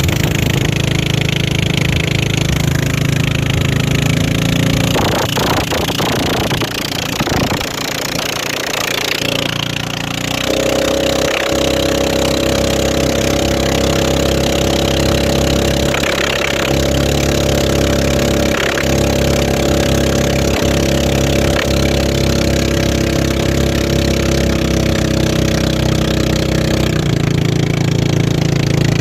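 Racing boat engine running loud and steady. Its pitch steps up about ten seconds in, holds there, and drops back near the end.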